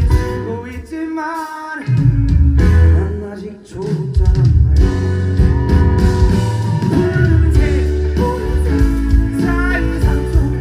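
Live pop-rock band performance with a male lead vocal over guitar, bass and drums. The bass and drums drop out briefly about a second in, then the full band comes back in.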